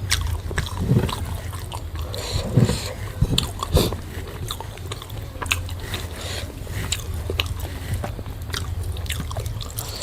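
Close-up eating sounds: chewing and biting, with many small crunches, clicks and smacks of the mouth, over a steady low hum.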